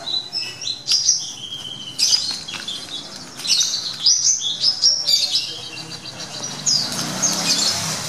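Many small birds chirping, with short high calls overlapping continuously.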